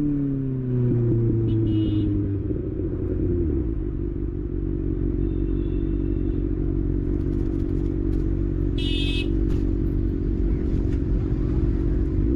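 Kawasaki ZX6R inline-four engine dropping in revs in the first couple of seconds, then running low and steady. A brief high-pitched beep sounds about nine seconds in.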